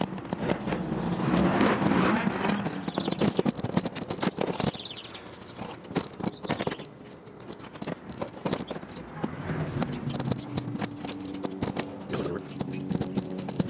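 Irregular clicks, knocks and scrapes of hand tools and metal engine parts being handled during a cylinder head removal, busiest in the first half. A low steady hum comes in about ten seconds in.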